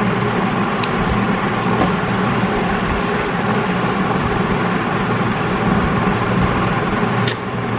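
Steady background hum and hiss, with a few faint sharp clicks from small plastic launcher parts being handled.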